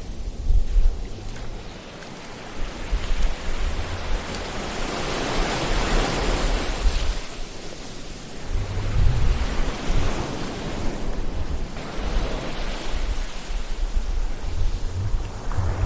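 Ocean waves breaking and washing up on a shore, the surf swelling and falling back every few seconds, with a low rumble as some waves break.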